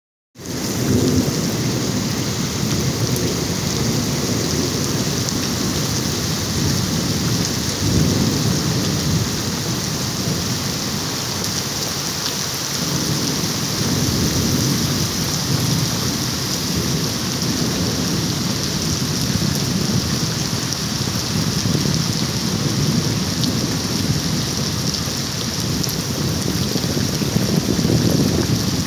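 Heavy rain pouring steadily onto waterlogged ground and trees, a dense even hiss. Underneath it, a low rumbling swells and fades every few seconds.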